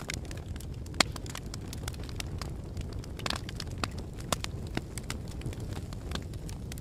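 Wood fire burning with a steady low rumble and frequent irregular crackles and sharp pops, a few louder snaps standing out.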